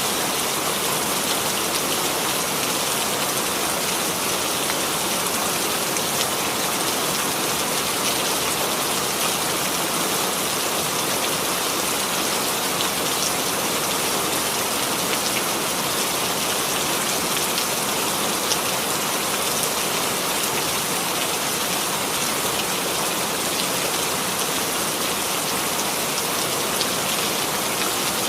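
Steady rainfall, an even hiss with faint drop ticks spread through it.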